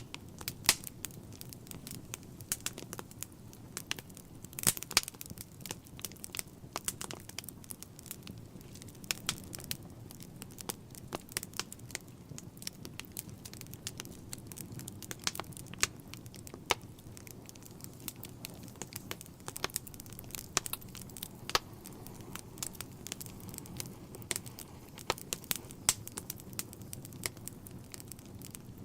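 Wood fire burning in a fireplace: irregular sharp crackles and pops, several a second, over a low steady rush of the flames.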